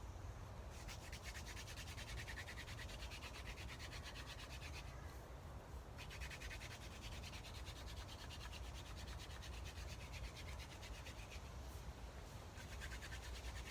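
Wooden hand-drill host spindle spun back and forth between the palms, its tip grinding in the socket of a wooden hearth board: a steady, fast rubbing with two short breaks, about five seconds in and near the end, as the hands return to the top of the spindle.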